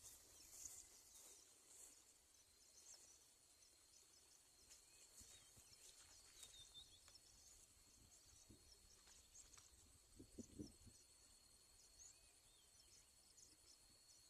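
Faint chorus of insects, likely crickets, chirping: a steady high thin trill with rapid scratchy chirps over it. A few soft low knocks come about ten seconds in.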